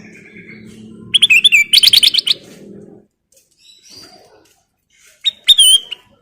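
Kutilang emas bulbul singing: a loud burst of fast chattering notes about a second in, then another short phrase near the end. A faint low hum runs beneath the first half.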